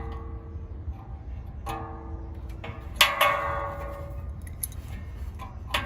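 Metal hand tools clinking and ringing against one another and the condenser's sheet metal: scattered clicks and short metallic rings. The loudest strike comes about three seconds in, its ring fading over about a second, over a steady low hum.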